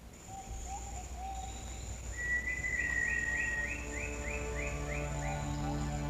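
Rainforest ambience: an insect's steady high-pitched buzz under bird calls, first a few short low whistles, then a run of about eight quick rising notes, roughly three a second. Low held music tones come in near the end.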